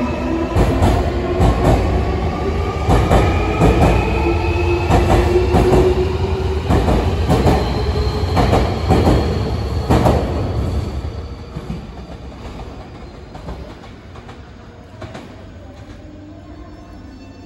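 Nankai Main Line electric commuter train pulling out and accelerating: its motors whine, rising steadily in pitch, over a low rumble and the clatter of wheels over rail joints. The sound fades away about eleven seconds in as the train leaves.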